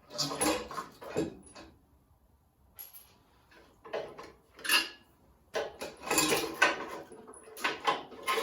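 Workshop handling noises: a series of irregular scrapes, clatters and knocks of parts being moved about, in clusters with short pauses between.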